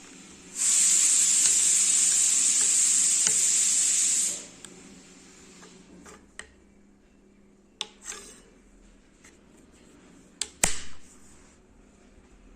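A loud, steady hiss lasting about four seconds, starting and stopping sharply. It is followed by a handful of sharp clicks of Lego pieces being handled and snapped together, the loudest a close pair near the end.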